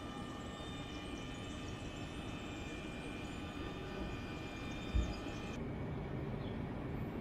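Stationary SNCF Régiolis regional train idling at the platform: a steady hum with several high, steady whining tones from its onboard equipment. A brief low thump about five seconds in, and shortly after the whine cuts off suddenly, leaving a duller steady hum.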